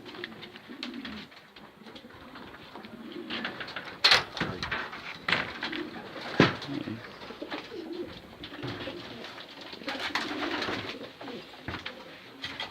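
Racing pigeons cooing, with a few sharp clacks mixed in, the loudest about four seconds in and again two seconds later.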